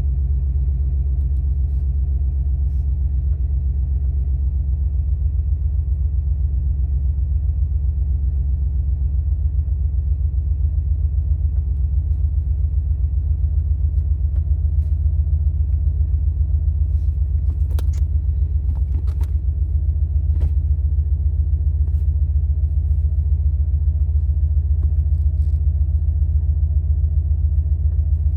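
2004 Subaru Impreza WRX STI's turbocharged 2.5-litre flat-four, breathing through a Borla aftermarket exhaust, idling steadily with a deep low exhaust note. A few brief clicks come about two-thirds of the way in.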